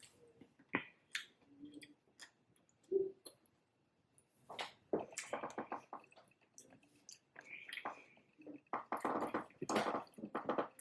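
Close-miked chewing and wet mouth sounds of someone eating cheeseburger egg rolls: scattered smacks and squishes at first, getting busier about halfway through.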